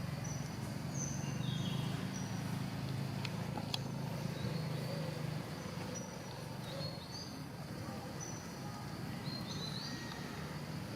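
Short, high bird chirps scattered over a steady low hum, with a few faint clicks.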